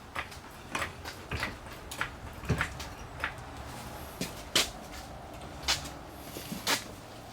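Irregular metal clanks and knocks, about a dozen, as an engine and transmission are worked into place during an engine swap.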